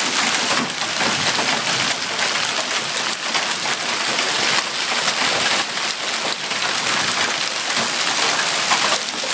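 Heavy storm rain falling hard, a dense steady hiss of many small hits on the surfaces around.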